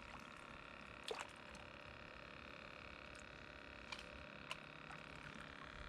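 Faint steady outdoor background hum, with a soft knock about a second in and two small clicks later on.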